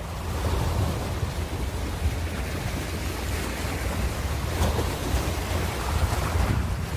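Ocean surf washing continuously, in swelling surges of hiss over a strong low rumble that is typical of wind on the microphone.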